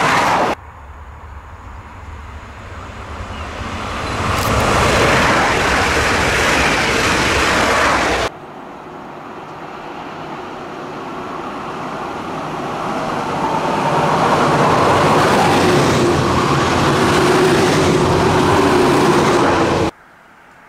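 Alstom Coradia Liner V160 bimode multiple units running through at speed on an unelectrified line, under diesel power: the rushing noise of the engines and of wheels on rail. The sound comes in separate clips cut together. One pass ends abruptly about half a second in, and a second train's approach builds to loud and is cut off about eight seconds in. A third train approaches with a steady engine hum, growing loud until it cuts off just before the end.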